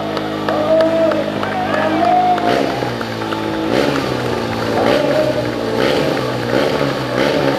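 Music with a singing voice over loudspeakers; about two and a half seconds in, a Ducati stunt motorcycle's engine comes in and revs up and down repeatedly over it.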